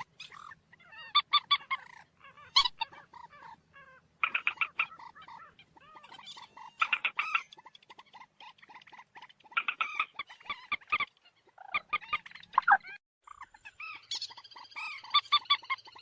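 Common moorhen calling: bouts of rapid, repeated clucking notes, with short pauses between them.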